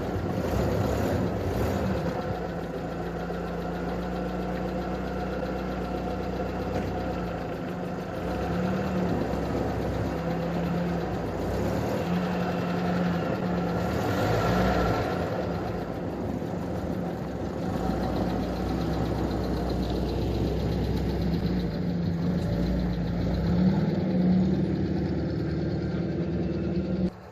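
UAZ off-roader's engine running steadily in deep cold, its pitch wavering a little and the loudness swelling now and then.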